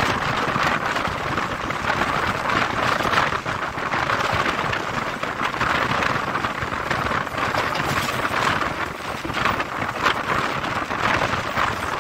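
Passenger train running fast, heard from an open carriage doorway: a steady rush of air with the coach's wheels rattling and clattering over the rails.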